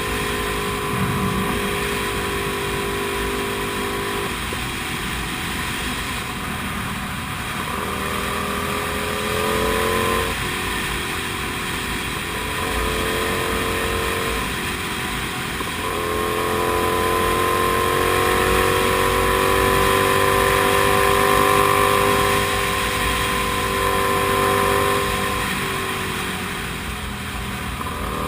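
Comet GTR 250 motorcycle's V-twin engine running under way. Its pitch repeatedly climbs and then drops back, as through gear changes and throttle changes.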